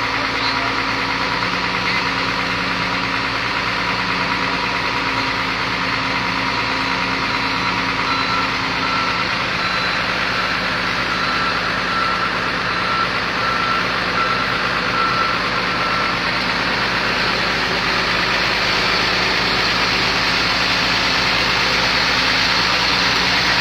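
Heavy diesel engine running steadily at a constant speed. In the middle, a warning alarm gives a run of short, evenly spaced beeps for several seconds.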